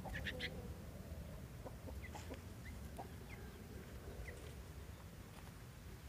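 Faint bird calls: a quick cluster of short high notes just after the start, then single brief chirps about once a second.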